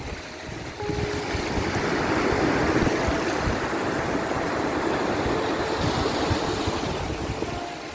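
Sea waves washing in as a steady rushing noise that swells about a second in and eases off near the end.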